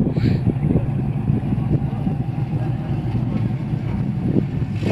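Car engine running steadily at low, even revs, with road and wind noise.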